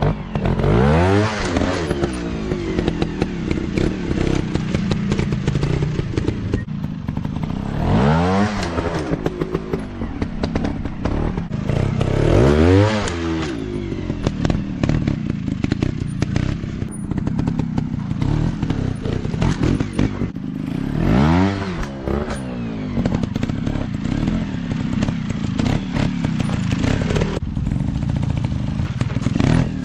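Small 150 cc dirt bike engine running and revving up and falling back about four times, with steady clatter and scraping throughout.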